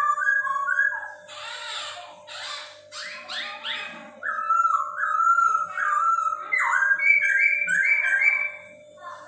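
Chinese hwamei (poksay hongkong) singing: phrases of loud, clear whistled notes repeated several times each and stepping up and down in pitch, with a few short harsh notes a couple of seconds in. A steady faint hum lies underneath.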